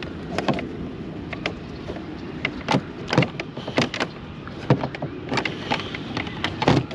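Irregular knocks and clatter, about one or two a second, of fishing gear being handled while a landing net is tugged at to get it free, over a steady low rumble.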